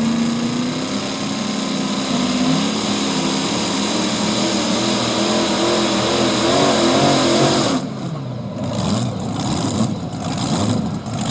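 Modified pulling tractor's engine at full throttle dragging the sled, pitch climbing and then wavering up and down, until the throttle is cut abruptly about eight seconds in. The engine then runs in uneven pulses as the pull ends short of a full run.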